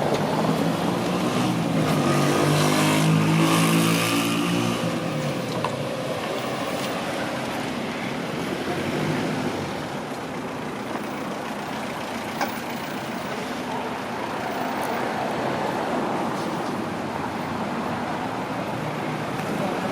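A motor vehicle engine passes close by in the first few seconds, its pitch falling as it goes, then steady street traffic noise. A single short click comes about halfway through.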